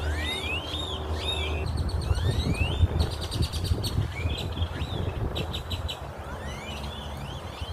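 Several small birds calling over one another: quick rising whistled notes and short buzzy trills, with a steady low rumble underneath.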